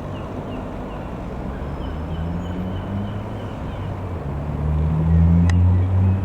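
Pierre Robin R3000-140 light aeroplane's single piston engine droning as it flies over, growing louder to a peak about five seconds in and then easing off.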